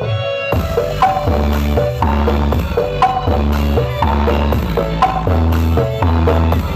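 Dance music played through a large carnival sound system during a sound check: a heavy, repeating bass line under a sharp clicking percussion beat. The beat comes back in about half a second in after a short break.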